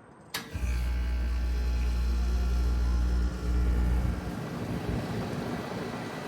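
Trane XL heat pump outdoor unit starting up in cooling mode: a sharp click, then a loud low hum with a steady tone that holds for about four seconds and eases to a lower, steady running sound.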